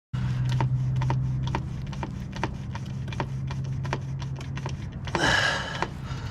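Fluid transfer pump filling the rear differential with gear oil: regular clicks about two to three a second over a steady low hum, stopping about four and a half seconds in. A short breathy rush of noise follows near the end.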